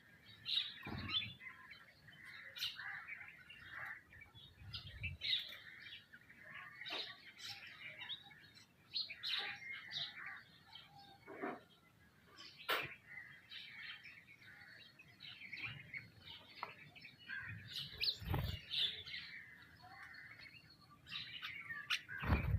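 Birds, sparrows and mynas among them, chirping continuously with many short overlapping calls while feeding, with a few low dull thumps, the strongest about eighteen seconds in.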